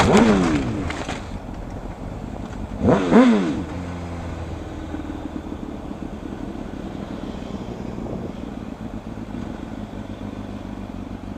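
Road traffic: a motor vehicle's engine passes with its pitch falling at the start, another engine rises and falls in pitch about three seconds in, then a steady low engine and road hum.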